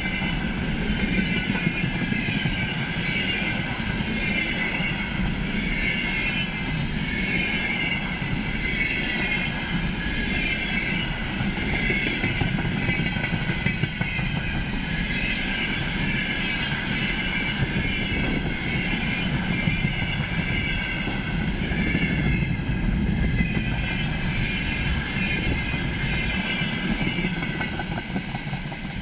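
Container freight train rolling past: steel wheels clattering over the rails, with a high, wavering wheel squeal over the rumble. It gets quieter near the end.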